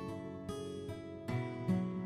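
Background music: acoustic guitar picking notes in a steady rhythm.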